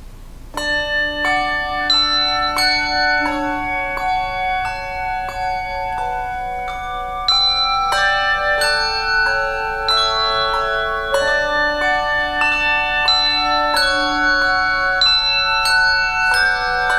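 Handbell choir playing a slow piece: many struck bell notes ringing on and overlapping in chords, starting about half a second in.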